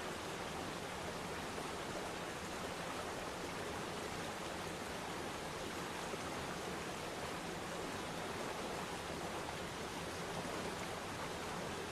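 Waterfall splashing into a pool: a steady, even rush of falling water.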